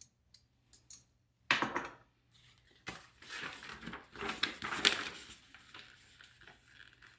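Small hard robot-kit parts, motors and link rods, being picked up and set down on a work surface: a few light clicks, a sharp knock about a second and a half in, then a few seconds of clattering and rustling.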